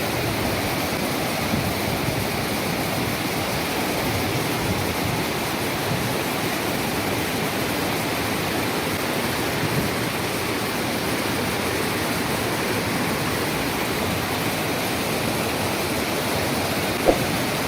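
Bomburu Ella waterfall: a steady, loud rush of falling water.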